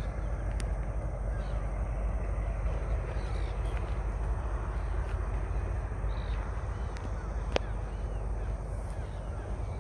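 Birds calling now and then over a steady low rumble of outdoor ambience, with a single sharp click about seven and a half seconds in.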